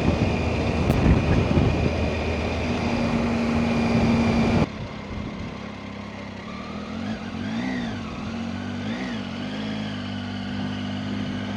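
Motorcycle riding along with heavy wind rush over the engine. About four and a half seconds in, the rush cuts off suddenly, leaving the engine running at low speed, its pitch rising and falling a few times.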